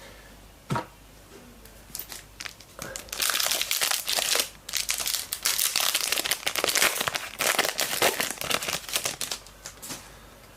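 A trading card pack's wrapper being torn open and crinkled, after a few light clicks in the first two seconds; the crinkling runs from about three seconds in until near the end.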